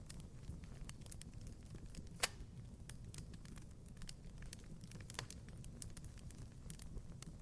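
Wood fire crackling in a fireplace: irregular small pops and snaps over a low rumble of the flames, with one sharp, louder pop about two seconds in and another a few seconds later.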